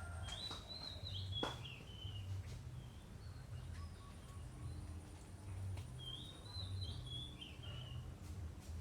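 A songbird singing two short warbling phrases, each about two seconds long, one near the start and one about six seconds in, over a steady low rumble.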